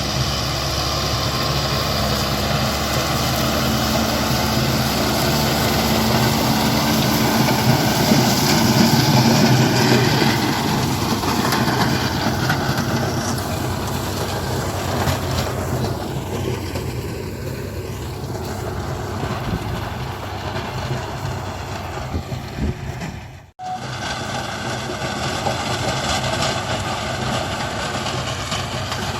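Kubota MU5501 tractor's four-cylinder diesel engine running steadily under load, driving a Kubota KRMU 181D rotary tiller through standing cotton stalks, with a rattling clatter over the engine note. The sound grows a little louder about a third of the way in and breaks off for an instant near the end.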